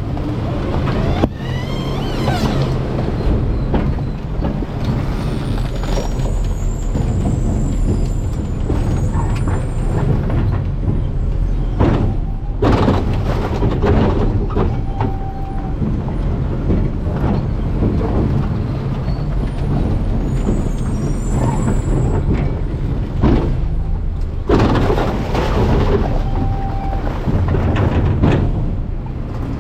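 Garbage truck running with a steady low engine rumble, broken by a few loud clattering bangs spaced through it.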